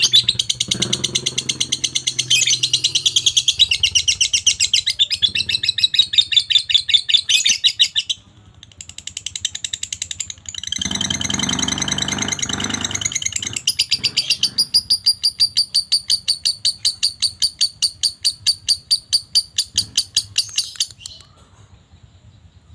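Lovebird chattering in long runs of fast, shrill, rapidly repeated notes, the continuous 'ngekek' trill prized in Indonesian songbird contests. The run breaks off about eight seconds in, starts again, and stops near the end.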